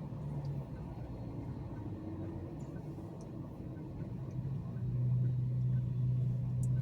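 A car driving: a steady low engine and road drone, with a deeper hum that swells louder about five seconds in.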